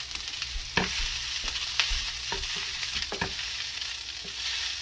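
Food sizzling steadily in a hot pan on the stove, with a few sharp clicks of a utensil stirring against the pan.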